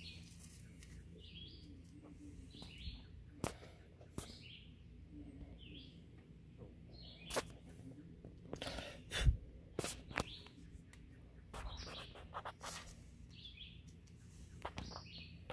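Small birds chirping, short calls repeated about once a second, with scattered sharp clicks and knocks.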